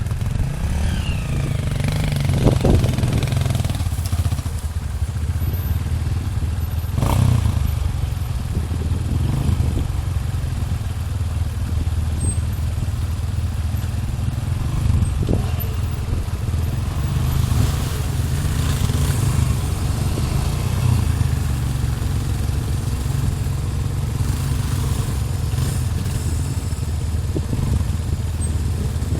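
Dirt bike engine running steadily, with a few sharp knocks and clatters along the way.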